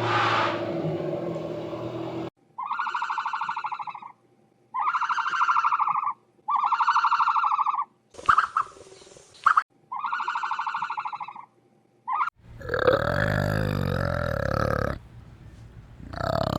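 Farm animal calls: a run of about four similar drawn-out calls, each about a second and a half long, then a different, louder animal call near the end.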